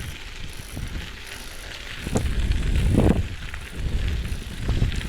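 Bicycle riding along a rail trail: tyre and wind rumble with scattered rattling clicks, growing louder about two seconds in as it picks up speed.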